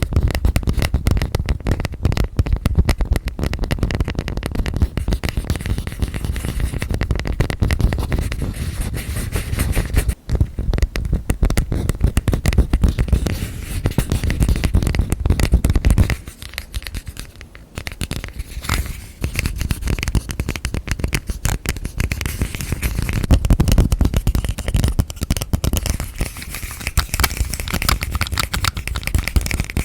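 Rapid, close-miked ASMR hand tapping on objects: a dense, continuous run of quick clicks and taps, easing off for a couple of seconds about sixteen seconds in.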